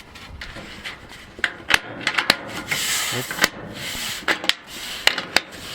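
Sheet-metal chimney cladding panels being handled and fitted: irregular sharp clicks and knocks with a stretch of scraping rub in the middle.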